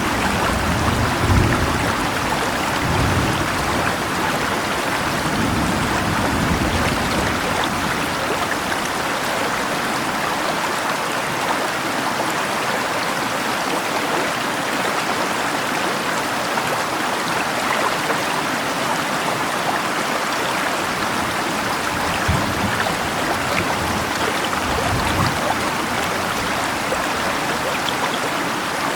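Steady rushing of a river mixed with falling rain, an even wash of water noise. A few brief low rumbles rise under it in the first several seconds and again twice near the end.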